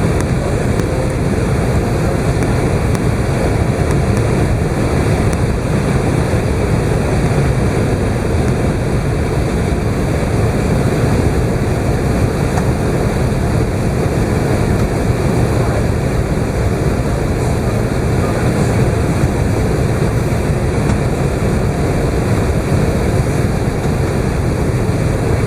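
Steady in-flight cabin noise inside an Airbus A380's upper deck: the even rush of airflow and engines, unchanging throughout.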